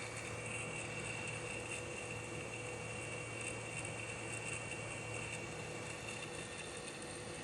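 Hot-air rework equipment heating a phone motherboard: a steady blowing hiss with a faint steady whine and a low hum that drops away about five seconds in.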